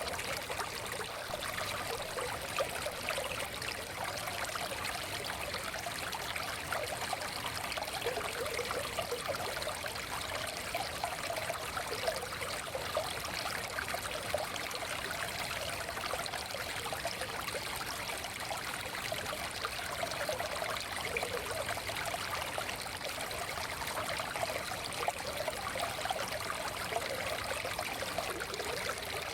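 Forest stream water flowing and trickling steadily over stones, a continuous babbling rush with small splashes and gurgles.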